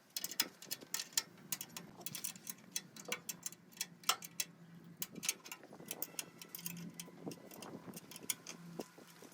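Quick, irregular light clicks and taps, several a second, over a faint low hum that comes and goes.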